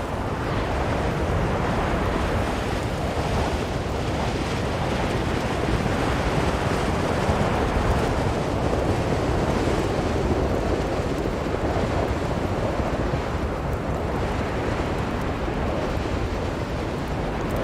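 Strong blizzard wind blowing in a steady, dense rush that swells a little around the middle.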